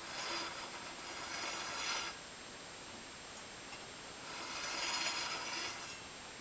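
DeWalt DW7491 table saw blade and arbor turned slowly by hand to check blade runout, making a soft scraping, rubbing noise twice, each pass lasting about two seconds.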